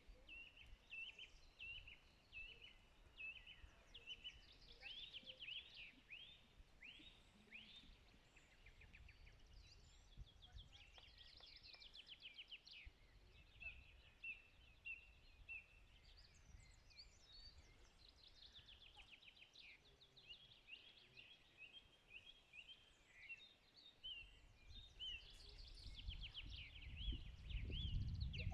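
Several songbirds singing at once in overlapping phrases of quick chirps, trills and sweeping notes, with a low rumble coming in near the end.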